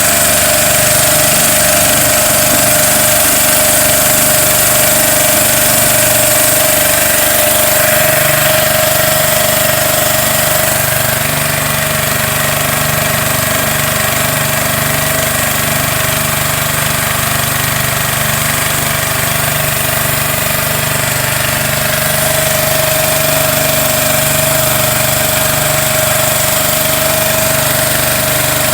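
Small motorboat engine running at a steady speed close by, a loud unbroken drone with a constant whine that never changes pitch.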